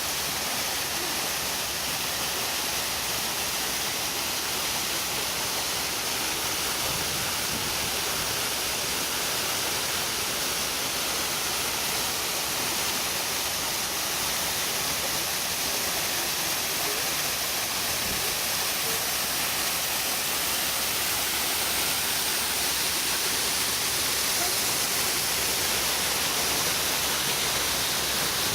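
Waterfall pouring steadily, a constant rushing hiss of falling water.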